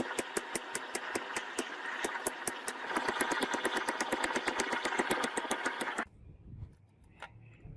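A machine running with a rapid, even clatter of about five clicks a second over a steady whirr. It grows louder about halfway through, then stops abruptly, leaving a faint low rumble.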